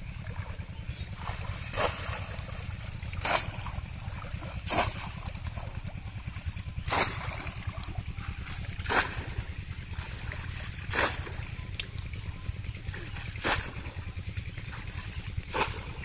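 Bamboo polo fish trap plunged into shallow floodwater again and again, about eight splashes, one every two seconds or so, over a steady low rumble.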